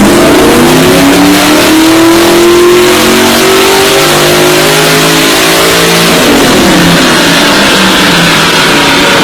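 Mercedes-AMG G-Class twin-turbo V8 accelerating, its pitch climbing steadily, then dropping about six seconds in and running on at a lower pitch.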